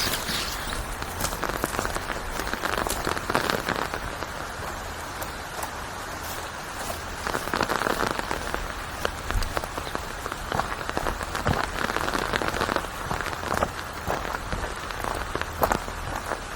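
Steady rain: many sharp individual drop hits over a continuous hiss that swells and eases every few seconds.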